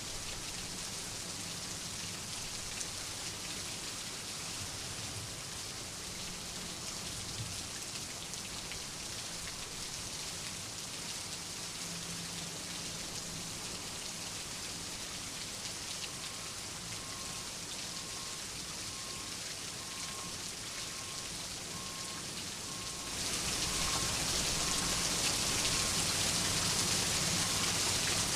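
Steady rain falling on a surface. About 23 seconds in it turns heavier and louder, then holds steady.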